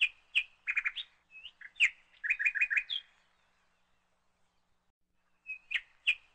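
A small bird chirping: a run of quick high chirps and short trills for about three seconds, a gap of about two seconds, then the chirps start again.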